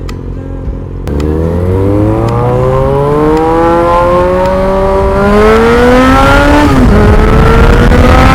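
Yamaha FZ6R's 600 cc inline-four through a Delkevic aftermarket exhaust, idling, then about a second in pulling away hard with its pitch climbing steadily for several seconds. Near the end a gear change drops the pitch and it climbs again.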